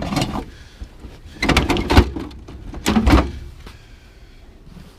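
Scrap pieces and a bin being handled: three bouts of clattering, then quieter.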